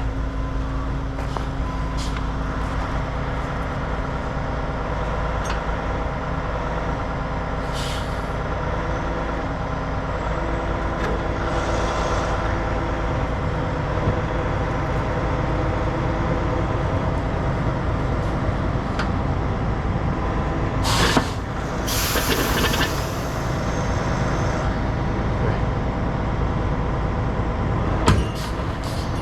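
Heavy diesel truck engine running steadily under load during a recovery pull, with short bursts of air hiss about two-thirds of the way through and a brief one near the end.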